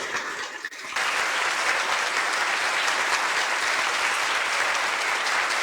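Large audience applauding steadily, the clapping coming in abruptly about a second in after a brief lull.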